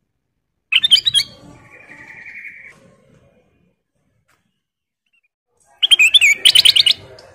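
Kutilang emas, a bulbul, singing two short bursts of quick, bubbly chirping notes about five seconds apart, with a fainter buzzy note after the first burst.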